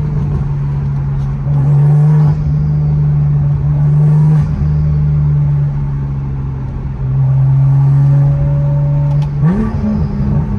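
Straight-piped BMW M2's turbocharged straight-six droning steadily while the car cruises, its note changing pitch and loudness with the throttle a few times and rising with the revs near the end.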